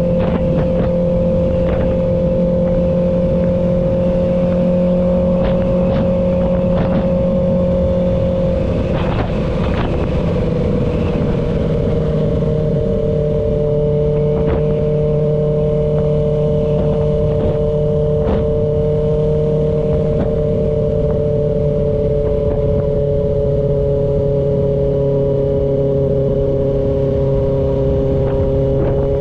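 Kawasaki Ninja ZX-6R inline-four engine running at steady cruising revs under way. Its pitch eases slightly lower about ten seconds in, then holds steady.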